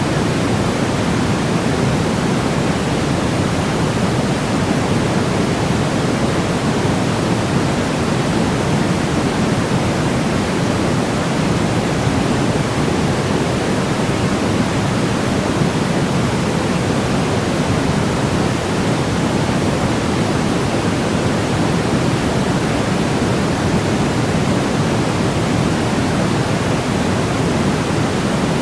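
Steady, unbroken white noise: a constant rushing hiss, weighted toward the deeper part of the sound, with no change or break.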